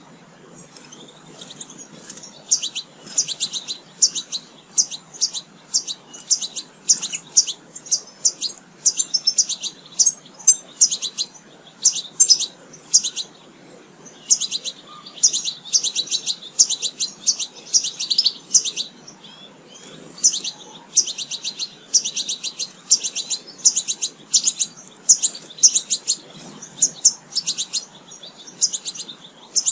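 Small songbirds chirping, a busy, steady run of short high calls at several a second, starting about a second in.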